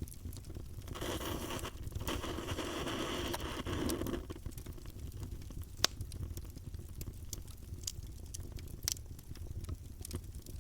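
Campfire burning: wood crackling with scattered sharp pops over a low steady rush of flame. A hissing surge runs from about one to four seconds in, and a louder single pop comes near the middle.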